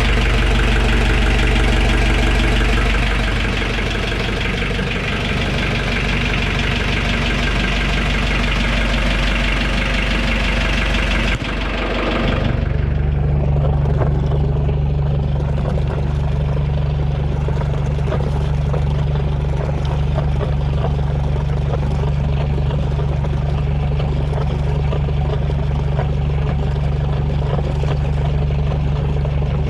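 An 8 m fishing boat's engine idling steadily. About eleven seconds in the sound changes suddenly: the higher clatter drops away and a deeper, even hum takes over.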